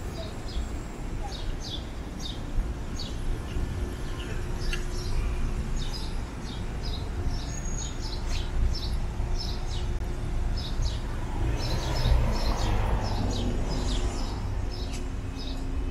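Small birds chirping repeatedly over a steady low rumble of city traffic, with a louder rush of noise swelling and fading about twelve seconds in.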